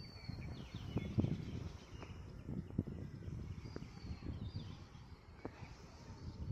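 Birds chirping now and then over a low, uneven outdoor rumble with a few soft knocks.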